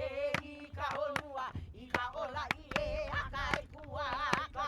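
A hula chant: one voice holding long notes with a strong wavering shake, over sharp, regular percussion strikes about twice a second.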